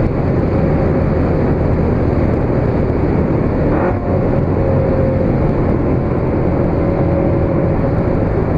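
Onboard sound of a Corvette C7 Z06's supercharged V8 running at a steady cruise, its drone mixed with road and wind noise, with a brief dip in the sound about four seconds in.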